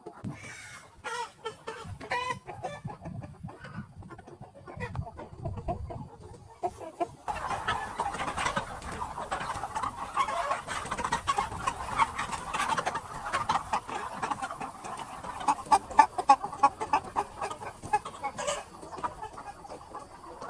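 A flock of chickens clucking: at first scattered single calls, then about seven seconds in a sudden switch to a dense, continuous chorus of many birds clucking at once.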